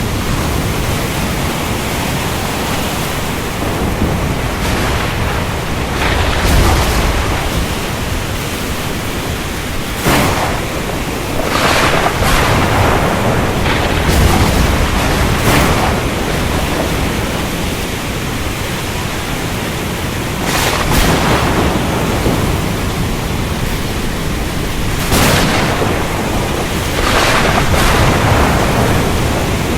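Ocean storm: a steady rush of rain and surf with thunder. Low rumbles roll in a few times, and about five sharp cracks come through.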